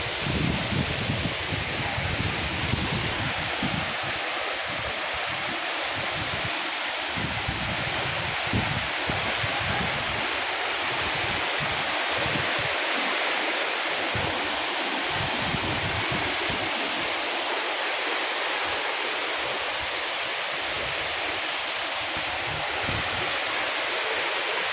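Steady rushing of a waterfall, water falling and splashing without a break, with an uneven low rumble underneath.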